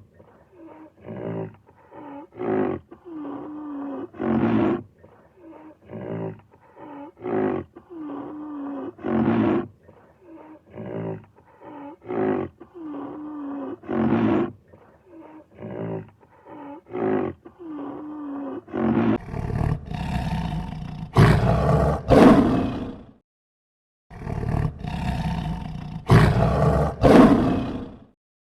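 A large animal calling: a long run of short calls, one every half second to a second, then two long, loud roars near the end.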